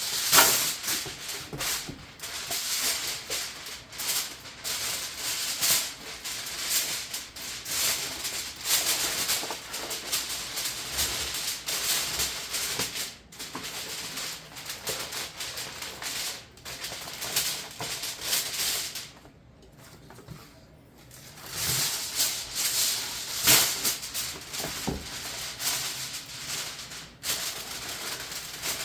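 Aluminium foil crinkling and rustling as it is pulled and pressed over a roasting pan, with a short pause about two-thirds of the way through.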